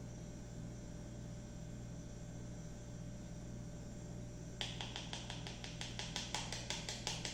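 Faint steady low hum, then about four and a half seconds in a quick, even run of faint clicks, several a second.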